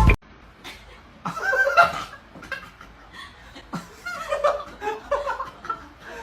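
A person laughing quietly in short bursts, chuckling and snickering.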